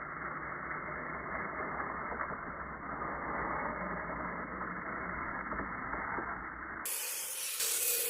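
Kyosho Blizzard RC snow trucks driving through snow: a steady, dull rushing of motor and tracks. About seven seconds in, the sound turns clearer and brighter.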